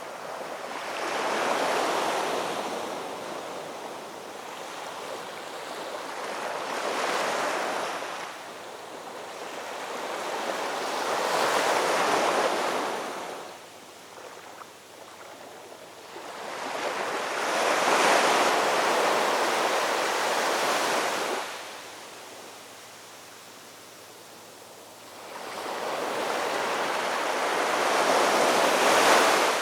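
Ocean waves breaking on a shore: the wash swells and falls back about five times, with quieter lulls between surges.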